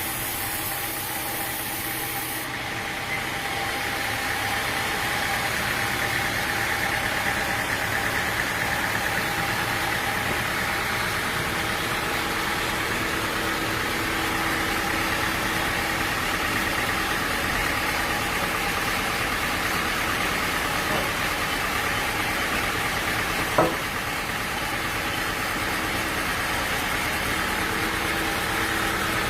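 Sawmill machinery running steadily, an engine-like hum with several steady tones, and a single sharp knock late on.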